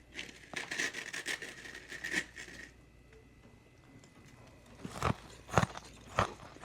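Small freezer icicles being chewed: a quick run of crisp crackling crunches for the first couple of seconds, a short lull, then three loud sharp bites near the end.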